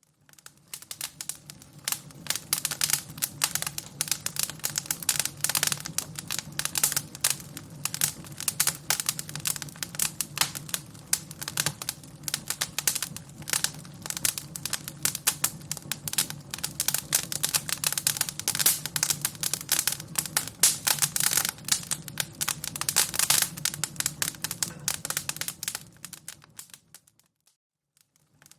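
Fire crackling: a dense, irregular run of pops and snaps over a low steady hum. It fades in at the start and drops out briefly near the end before resuming.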